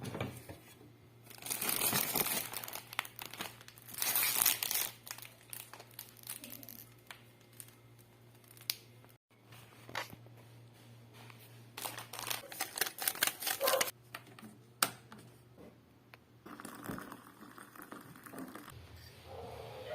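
Crinkling and rustling of packaging being handled, in several bursts with a few sharp clicks in between.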